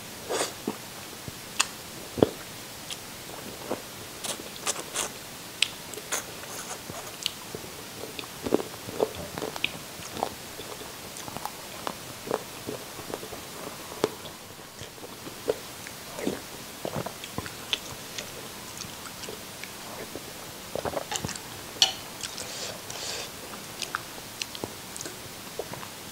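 Close-miked eating of chicken feet: irregular bites and chewing, with many sharp clicks and smacks of the mouth working on skin and cartilage, and a short lull about halfway through.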